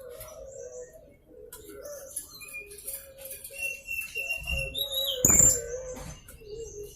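Young blue-crowned hanging parrot (serindit) calling in rapid thin high chirps and short whistled notes, over a low wavering tone. A loud burst of noise about five seconds in, plausibly wing flapping, is the loudest moment.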